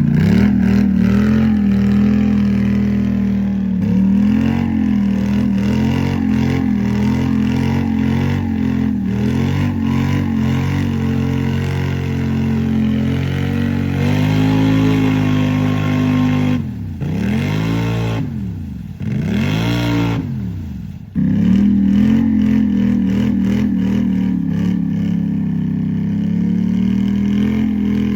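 Polaris Sportsman 850 ATV engine held at high revs while pushing through deep mud, its pitch wavering under load. About two-thirds of the way in, the revs drop and climb twice, then it goes back to full throttle.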